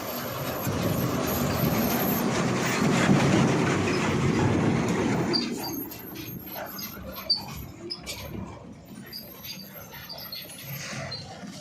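JCB 3DX backhoe loader at work: a loud, rough mechanical rush that swells over the first few seconds and drops away suddenly about five and a half seconds in, leaving a quieter background with scattered clicks and short high squeaks.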